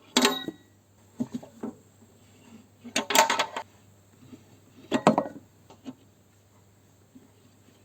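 Metal tools and mower parts clinking and clanking as they are handled, in four short bursts. The loudest burst comes about three seconds in.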